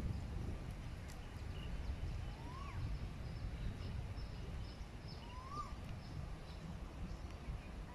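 Birds calling outdoors: a clear call that rises and then drops comes twice, over fainter short, high chirps, with a low rumble underneath.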